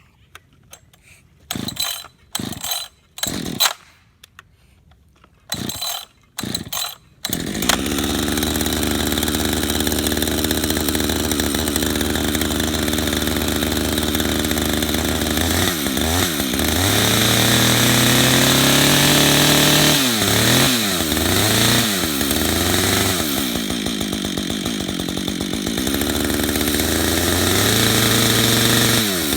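Large chainsaw being started: several short sputtering bursts with pauses, then the engine catches about seven seconds in and runs steadily. Later its engine speed drops and rises again several times as it cuts into a hardwood stump.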